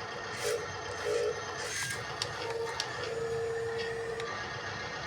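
Small electric motors of a radio-controlled model loader whining in short spurts, then in one longer steady whine about three seconds in, with a few sharp mechanical clicks.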